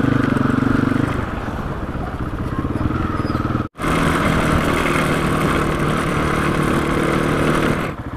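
Rally motorcycle engine running steadily while riding, heard from a helmet camera. The sound drops out for an instant about four seconds in, then the engine runs on as before.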